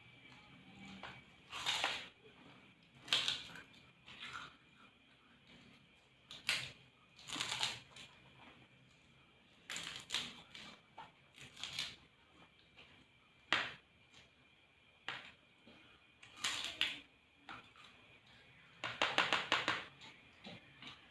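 Several people eating instant noodles, slurping and chewing in irregular bursts every second or two, with a longer slurp near the end.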